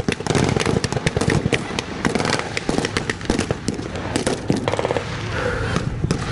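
Dense, rapid gunfire from blank-firing rifles and machine guns in a mock battle, many overlapping shots and bursts, thinning out after about four and a half seconds.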